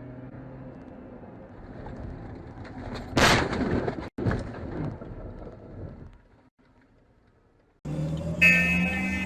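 Vehicle collision: steady road noise, then a loud crash impact about three seconds in and a second bang about a second later, dying away. Near the end new engine noise starts, with a short sharp noise and a tone that rises and then falls.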